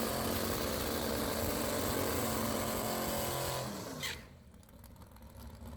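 Drag car's 500-cubic-inch 440-stroker big-block V8 running at a steady pitch, then its note falls and the sound drops off sharply about four seconds in, leaving faint background.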